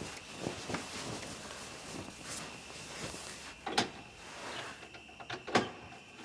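Soft rustling of bedclothes with scattered small clicks and two sharper knocks, about four and five and a half seconds in, over a faint steady high-pitched hum.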